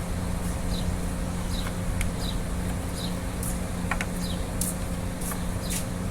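A steady low mechanical hum, with short high chirps repeating every half second to a second and a few sharp clicks.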